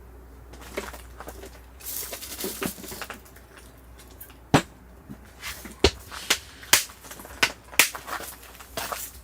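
Burning firewood crackling: irregular sharp pops and snaps over a faint hiss, a few of them much louder than the rest.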